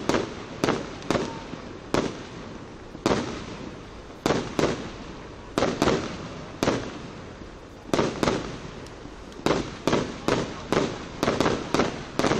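Fireworks display: an irregular string of sharp bangs, often two or three in quick succession, each trailing off in a short echoing rumble.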